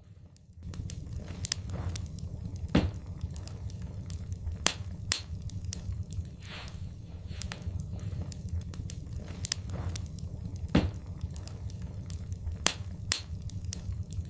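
Wood fire crackling in a fireplace: irregular sharp pops and snaps, a few much louder than the rest, over a steady low rumble of burning that comes in under a second in.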